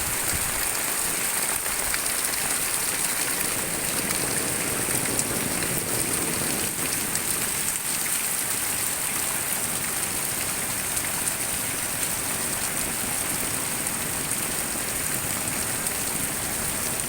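Heavy rain pouring down steadily, a dense even hiss of drops striking surfaces.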